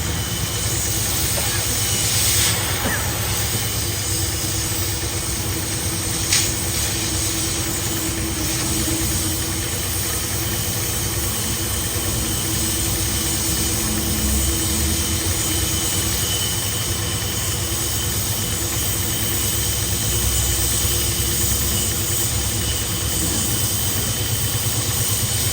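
Heavy boring machine running steadily while machining a steel pipe: an even mechanical noise with a steady hum and a high whine. Two short sharp clicks come a few seconds in.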